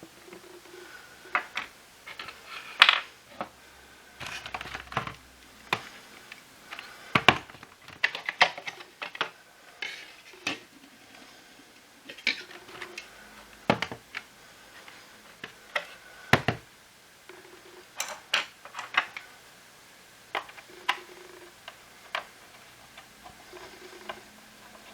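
Hard plastic parts of a Shark cordless stick vacuum being handled and taken apart: irregular clicks, taps and knocks of plastic on plastic and on a hard surface, with a few louder knocks.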